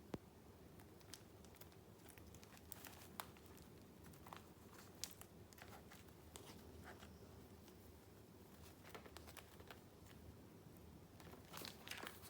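Faint paper handling: junk-journal pages and paper pieces rustling and crinkling, with scattered light clicks and taps.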